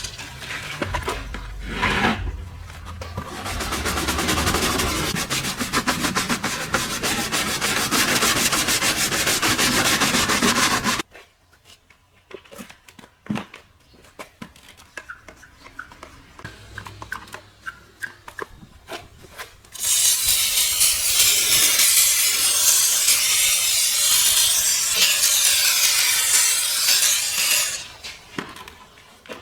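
Rapid scrubbing and rubbing on a car surface during detailing, then a quieter stretch of small clicks and handling noises. A steady hiss starts about two-thirds of the way in and runs for several seconds before dropping away.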